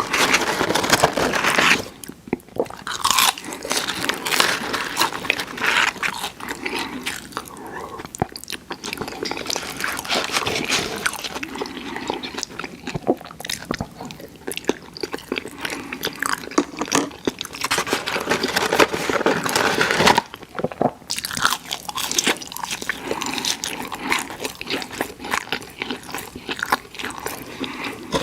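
Close-miked eating of crunchy fried fast food: repeated crackling bites and chewing, with brief pauses about two seconds in and again about twenty seconds in.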